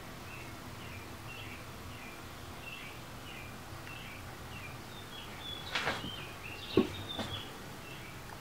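A bird outside chirping over and over, short chirps every half second or so. A little past the middle come a few scuffs and knocks, one sharp thud the loudest.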